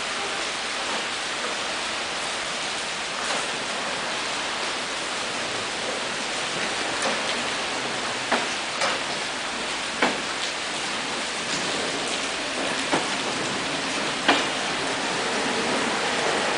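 Steady rain falling, an even hiss with scattered sharp taps of drops hitting close by.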